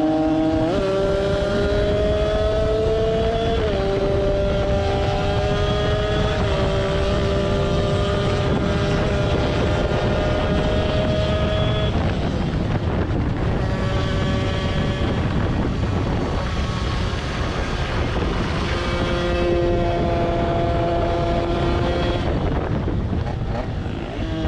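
Tuned small two-stroke engine with a TPR 76 cylinder kit, 24 mm Mikuni carburettor and DRP exhaust, running at high revs. The pitch holds or slowly climbs for several seconds at a time, steps to a new pitch a few times, and eases off twice.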